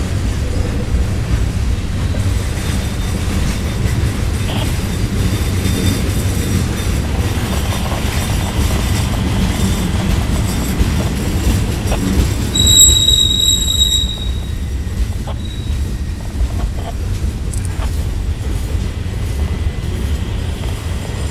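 Freight cars of a slow CSX mixed freight train, boxcars and then centerbeam flatcars loaded with lumber, rolling past with a steady low rumble of wheels on rail. Somewhat past the middle, a wheel lets out a high, steady squeal lasting just over a second, the loudest sound in the stretch.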